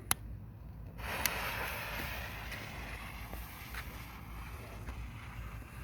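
Lit firework hissing: a sudden rushing hiss starts about a second in, with a few sharp crackles, and slowly fades.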